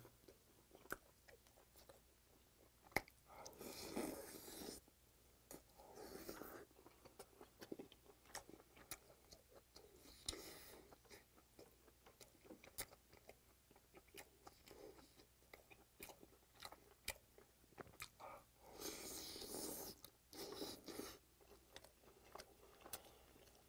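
Faint close-up eating sounds of a person gnawing and chewing tender braised pork back-bone meat: scattered wet mouth clicks and smacks, with a few short louder stretches of noise as the meat is bitten and pulled off the bone.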